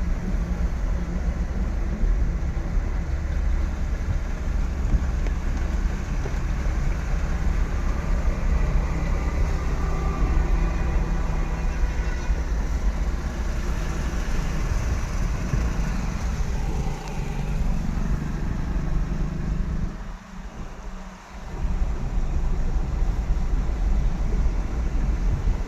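Steady low rumble of a motor vehicle running close by, with road noise over it, dropping away briefly about twenty seconds in.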